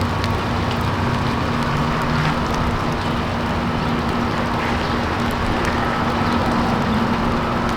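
Steady outdoor ambient noise: an even rush with a low steady hum and faint scattered ticks, with no single event standing out.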